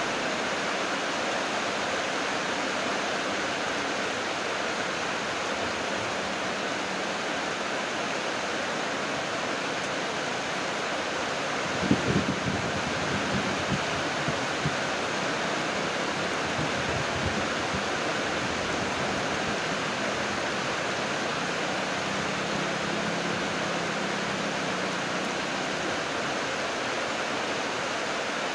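Heavy tropical rain falling steadily, a dense even hiss. About twelve seconds in, a brief low rumble of thunder rises under the rain for a few seconds.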